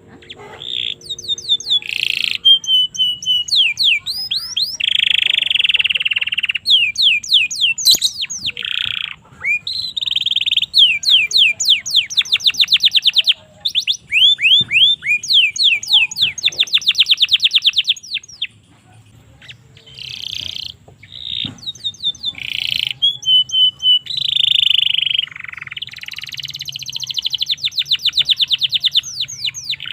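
Domestic canary singing a long, continuous song of rapid trills and fast repeated sweeping notes, with a couple of short breaks about midway.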